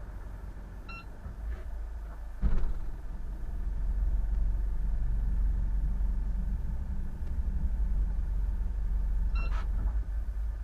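An engine running with a steady low rumble that grows louder after a sharp knock about two and a half seconds in. Two short electronic beeps sound, one about a second in and one near the end.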